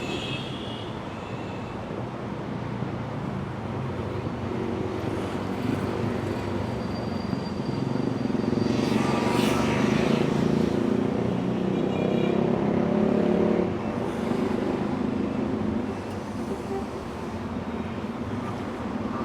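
Steady city street traffic with vehicles passing. It swells for several seconds around the middle as a vehicle goes by close, with a brief whoosh near its peak, then drops back to the steady background.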